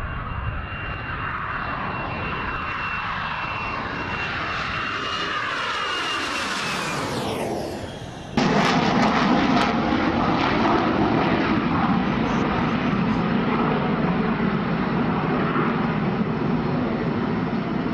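Jet fighter passing by, its high turbine whine and roar sweeping down in pitch as it goes past. About eight seconds in, the sound cuts abruptly to a louder, lower, steady jet rumble with some crackle at first.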